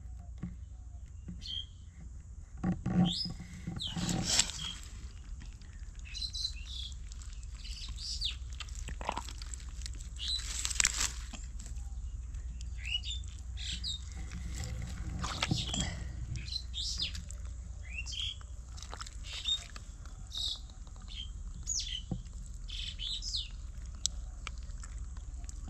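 Small birds chirping repeatedly with short, quick calls, outdoors over a steady low rumble, with a few louder rustling knocks about three, four and eleven seconds in.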